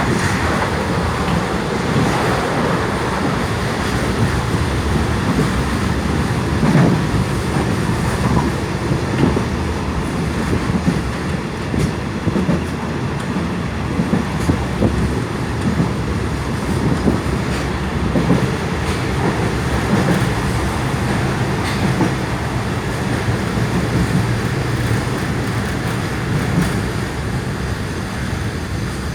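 Passenger train running along the line, a steady rumble with occasional clicks.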